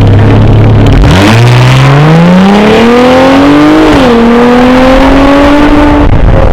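Jeep Wrangler JL's 3.6-litre V6 through an aftermarket exhaust, idling for about a second, then accelerating with the exhaust note climbing in pitch. The pitch drops briefly at an upshift about four seconds in, then climbs again before easing off near the end.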